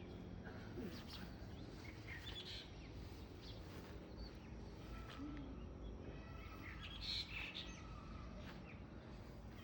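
Birds chirping here and there, a few short calls at a time, over a steady low background rumble; the loudest burst of chirps comes about seven seconds in.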